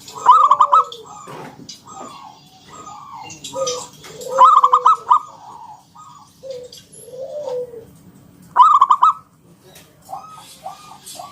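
Zebra dove (perkutut) singing: a string of short cooing notes, broken three times by a louder, rapidly pulsed trilling phrase.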